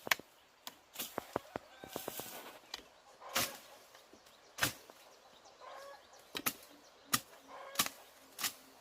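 A dozen or so sharp knocks at uneven intervals, like tool strikes on wood, with chickens clucking faintly between them.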